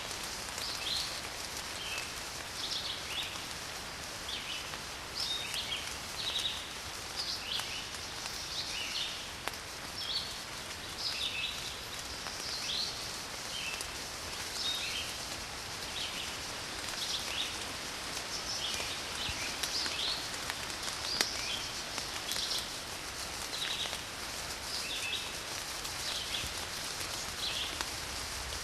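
Steady rain falling, with small birds chirping over it in short repeated calls, one or two a second.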